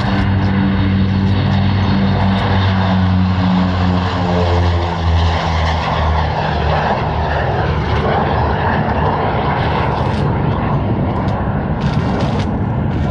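Lockheed P2V-7 Neptune flying past, its propeller engine drone dropping in pitch as it goes by, then giving way to a broader rushing noise.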